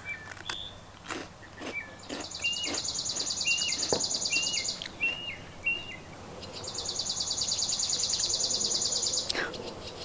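Outdoor birdsong: one bird sings a high, fast, buzzy trill twice, each lasting about three seconds, while another bird gives a run of about six short chirps in the first half.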